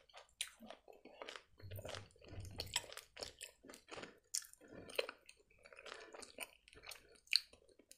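Close-miked chewing of gummy candy (marmalade), with short soft mouth clicks and smacks at irregular intervals.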